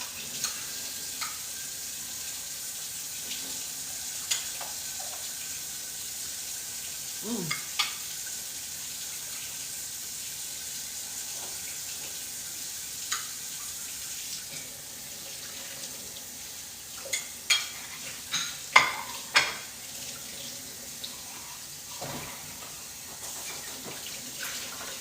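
A steady kitchen hiss with scattered clinks and knocks of pots, dishes and utensils, and a flurry of louder clatters about seventeen to twenty seconds in.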